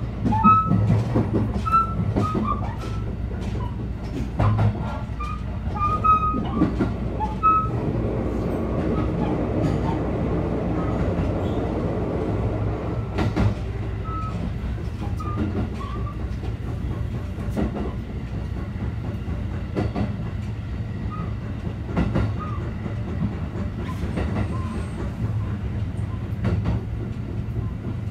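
Running noise inside a JR 223 series 2000 electric train car: a steady rumble of wheels on rail, with irregular sharp knocks over the track and short high squeals from the wheels in the first several seconds. The car is one whose wheels have a flat spot.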